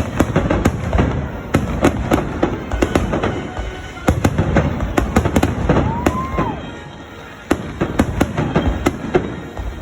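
Fireworks going off in rapid volleys: many sharp cracks and bangs, easing off briefly about seven seconds in before a fresh volley, with music playing underneath.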